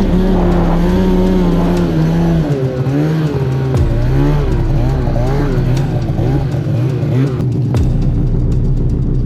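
Snowmobile engine running steadily, its pitch dropping a step about two and a half seconds in and wavering up and down.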